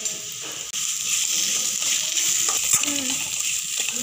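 Brinjal (eggplant) pieces frying in a steel kadai: a steady sizzle that grows louder about a second in, with the clinks and scrapes of a metal spatula stirring against the pan.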